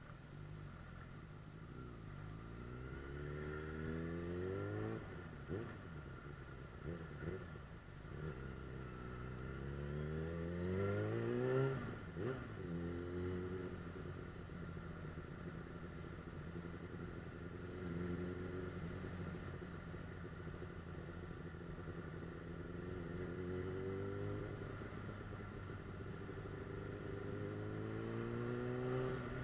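Suzuki GSF 600 Bandit S inline-four engine under way: it revs up twice in the first twelve seconds with a gear change between, settles to steady cruising revs, then rises again near the end.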